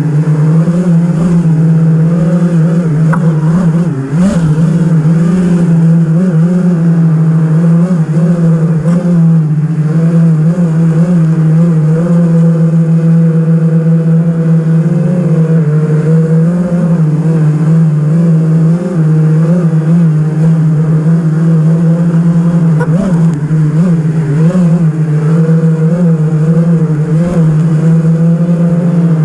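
A 5-inch 6S FPV quadcopter's brushless motors and propellers whining, the pitch rising and falling continually with throttle changes during close-quarters flying.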